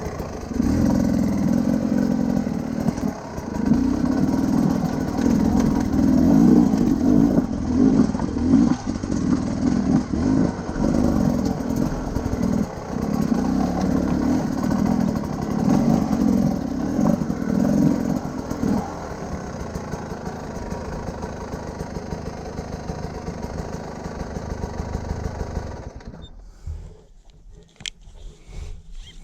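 Enduro motorcycle engine running under load, its note surging and easing over and over with the throttle, then running steadier. Near the end the engine sound drops away abruptly, leaving a few faint clicks.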